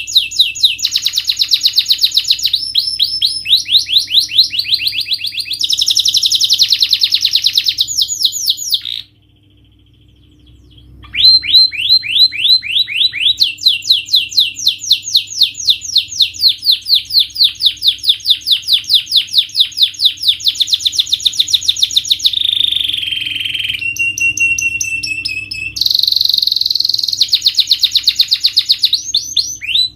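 Domestic canary singing long rolls of rapidly repeated high notes, switching to a new roll every few seconds, with a pause of about two seconds around nine seconds in.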